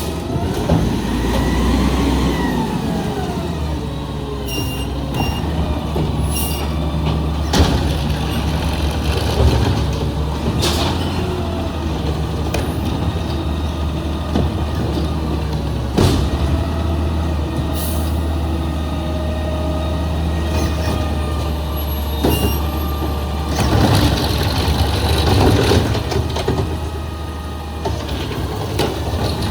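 Garbage truck's diesel engine running steadily, with a whine that rises and falls in the first few seconds, several sharp metallic knocks and a hiss of air brakes about 24 seconds in.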